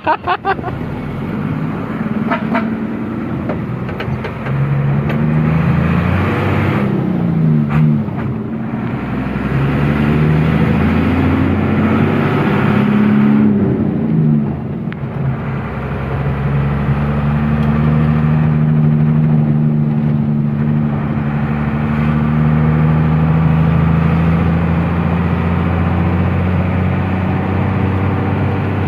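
Truck engine pulling away and accelerating, its pitch climbing and dropping several times as it shifts up through the gears, then settling into a steady cruise from about halfway.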